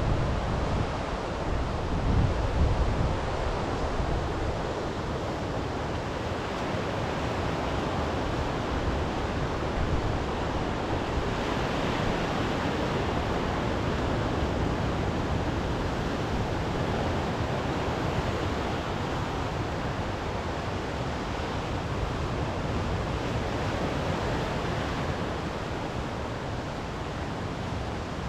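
Waves washing on a sea shore in a steady rush, with wind buffeting the microphone in low gusts during the first few seconds.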